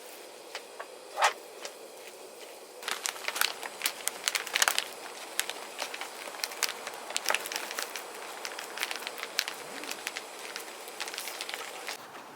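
Wood fire crackling, irregular pops and snaps over a steady hiss; the popping grows busier about three seconds in.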